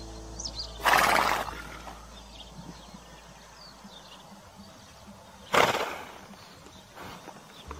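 A horse snorting twice, short and breathy, about a second in and again at about five and a half seconds.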